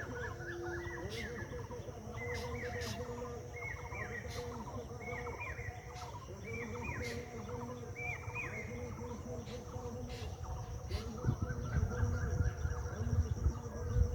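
Rural outdoor ambience: birds calling, one repeating a short chirp about once a second, over a steady high insect drone. A low rumble grows louder in the last few seconds.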